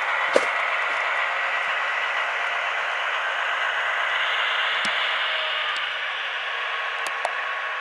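Diesel locomotive sound from the Tsunami sound decoder in an HO-scale Athearn MP15 model, played through its small speaker: a steady, thin, hissy engine sound with no bass, easing slightly near the end, with a few short sharp clicks.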